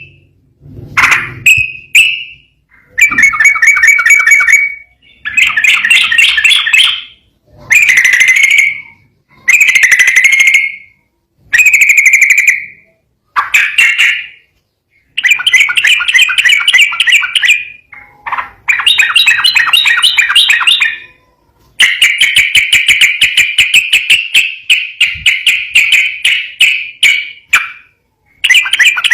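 Yellow-vented bulbul (trucukan) singing its rapid, chattering 'ropel' song in phrases of one to two seconds with short pauses between, then one longer unbroken run of about six seconds near the end.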